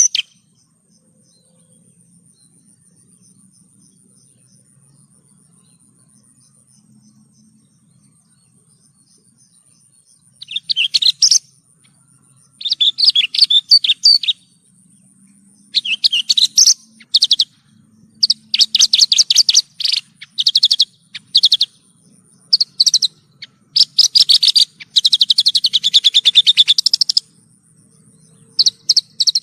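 Javan bush lark (branjangan) singing. It is quiet for the first ten seconds or so, then sings repeated phrases of rapid, high notes, each a second or two long with short pauses between them. The longest phrase comes near the end.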